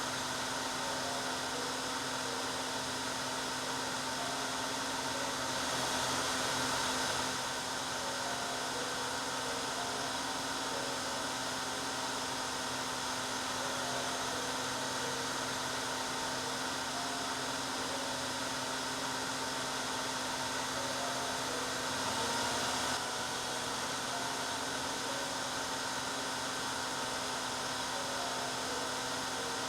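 Hair dryer running steadily: an even rush of air over a steady motor hum. It grows briefly louder twice, about six seconds in and again about twenty-two seconds in.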